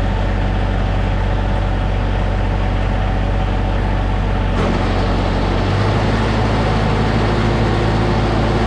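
Tractor engine running steadily while snowblowing. About halfway through, its note changes suddenly as the engine speed shifts.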